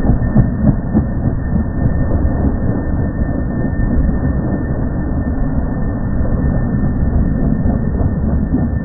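Police helicopter taking off, its turbine and rotor noise slowed down into a deep, steady rumble.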